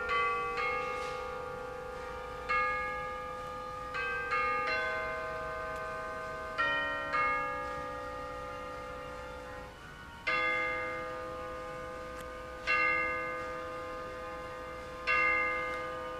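Chiming clock ringing a melody of bell tones, then striking the hour with slow, evenly spaced strokes starting about ten seconds in, each ringing on until the next.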